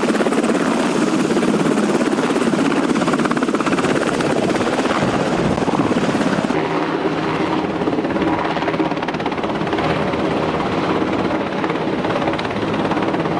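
Navy MH-60 Seahawk helicopter hovering low over the deck, its rotor blades beating rapidly over the turbine noise. About six and a half seconds in the sound turns duller, and a steady whine comes through under the rotor beat.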